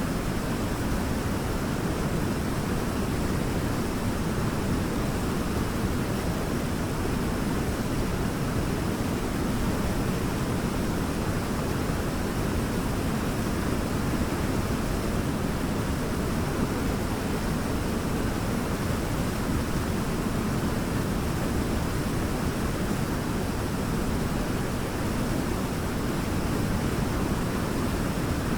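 Waterfall rushing steadily, a constant deep roar of falling water.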